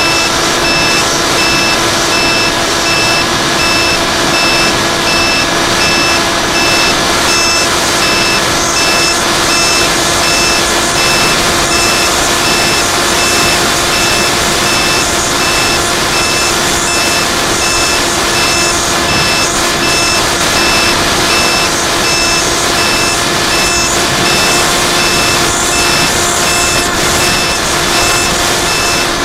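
A high electronic beep repeating at an even pace over a loud, steady rushing noise with a faint constant hum.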